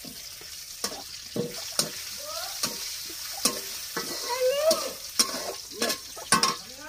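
Steady sizzling hiss of food frying in a pan, with repeated short scrapes and clinks of a utensil stirring against the pot.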